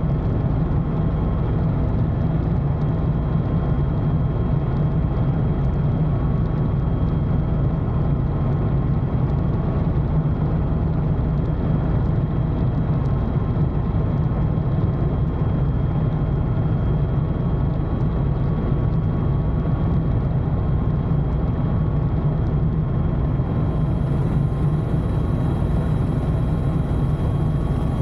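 Steady helicopter noise heard from inside the cabin in flight: a deep, constant engine and rotor din with faint steady whining tones over it. A faint high whine joins near the end.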